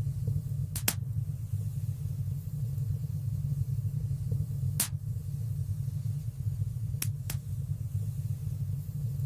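Wood fire burning in a fireplace: a steady low rumble with a few sharp crackling pops, a close pair about a second in, one near the middle and another pair a couple of seconds later.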